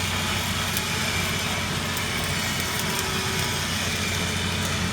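Welding shop equipment running: a steady low machine hum under a constant hiss, with a few faint scattered clicks.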